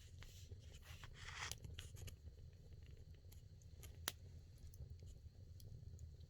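Firewood burning in a traditional Korean agungi firebox, crackling faintly with scattered pops, a short hiss about a second in and one sharper snap about four seconds in, over a low steady rumble.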